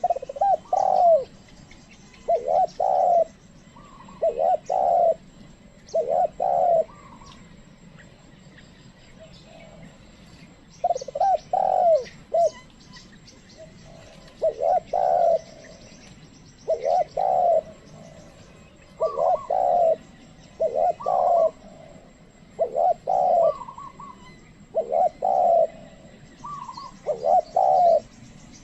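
Spotted dove (tekukur) cooing: short two- and three-note coos repeated about every two seconds, with a pause of about four seconds near the middle. Faint high chirps sound behind it.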